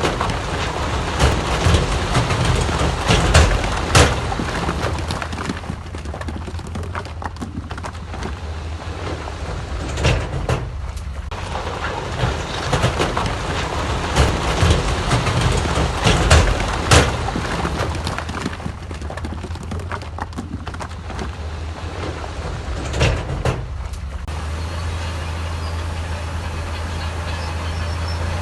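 Heavy earthmoving machinery at work: a diesel engine running under load, with repeated clanks and grinding of rock and metal. It settles into a steady idle near the end.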